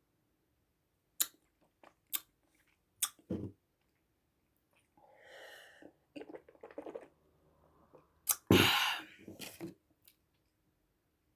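Close-miked mouth sounds of eating: a few sharp clicks and smacks, a soft breathy rush about five seconds in, and a loud rushing burst about eight and a half seconds in.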